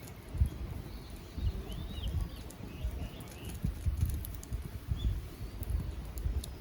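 Small birds chirping faintly in short phrases over an irregular low rumbling, with a few small clicks scattered through.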